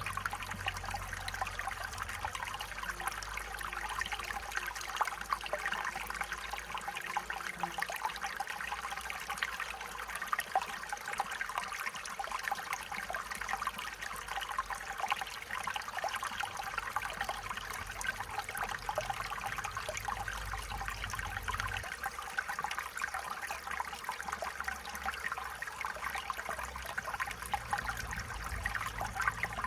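Stream water running and trickling over stones, a steady babbling with fine splashes.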